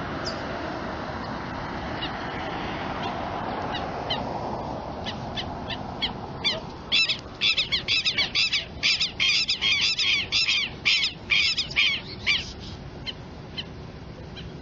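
Birds calling: scattered single high calls at first, then about six seconds in a loud burst of rapid, repeated harsh calls that lasts about six seconds before thinning out again, over a steady background rush.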